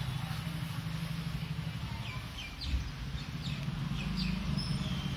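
Small birds chirping outdoors, a string of short falling chirps in the second half, over a low steady rumble.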